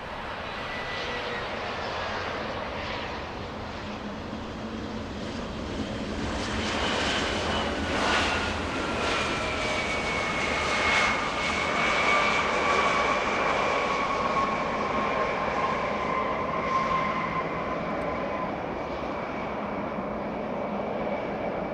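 Embraer E175 regional jet's twin GE CF34 turbofans passing by. The engine noise builds toward the middle while several whining tones slide slowly down in pitch as the jet goes past.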